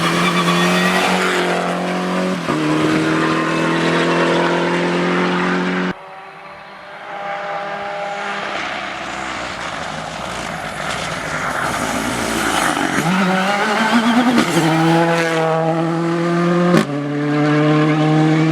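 Rally car engines running hard at high revs. The sound drops suddenly about six seconds in to a quieter stretch, then an engine climbs in pitch as it accelerates and holds high again near the end.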